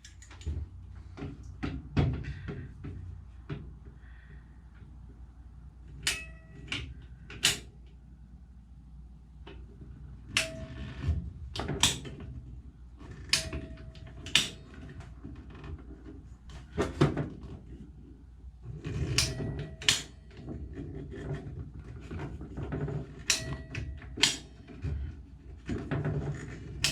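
A ratcheting pipe cutter being squeezed on a plastic pipe: irregular sharp clicks and knocks, some with a short ringing tone, over handling noise.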